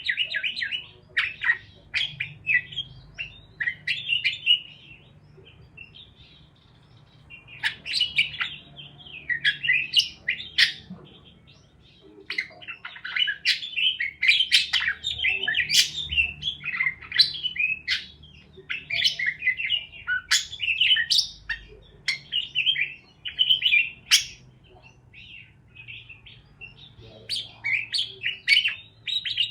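Budgerigars (parakeets) chattering with rapid, high chirps and twitters that come in busy bursts, with short lulls between them.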